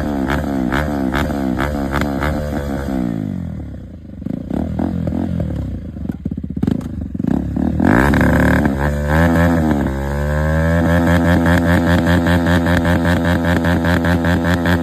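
KTM 390 Duke single-cylinder engine through an aftermarket exhaust, revved in quick repeated blips. It then drops back to a lower, uneven running with sharp cracks, is revved up about eight seconds in, and is held at a steady high rev near the end.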